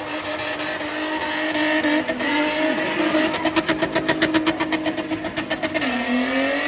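Spinning car's engine held at high revs. For a couple of seconds midway it breaks into a rapid, even stutter of about ten pulses a second, then the pitch dips briefly near the end.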